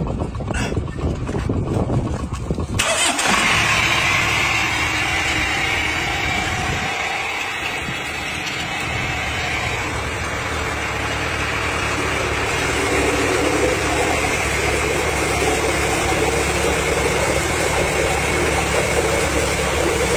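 Tractor engine driving a water pump. About three seconds in, the sound jumps fuller and a steady hiss joins it, and from then on it runs steadily.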